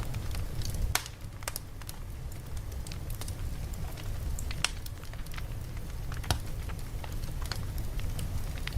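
Campfire crackling: scattered sharp pops and snaps over a steady low rumble, with louder pops about a second in and again past the middle.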